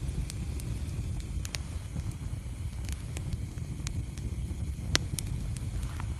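Wood fire burning in a fireplace: a steady low rumble of flames with scattered sharp crackles and pops, the loudest one about five seconds in.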